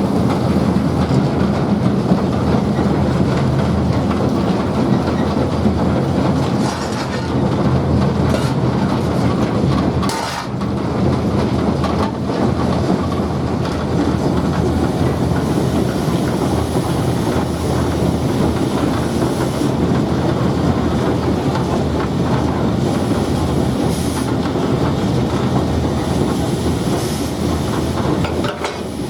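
Train running along the track: a steady rumble with the clatter of wheels on the rails.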